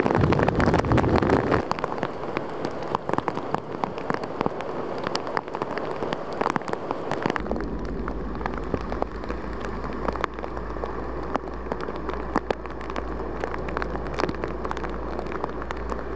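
Rain falling steadily onto hard surfaces, with many short sharp drop hits through it. A low steady hum joins about seven seconds in.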